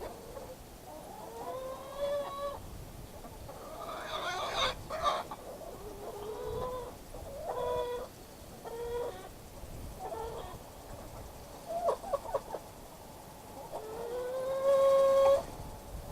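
Backyard chickens clucking and calling, with short calls and a few long drawn-out calls that rise and then hold, the loudest one near the end.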